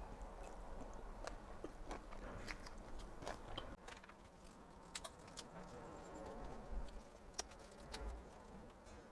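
Faint chewing and biting while eating spring rolls, with scattered small mouth clicks and crunches.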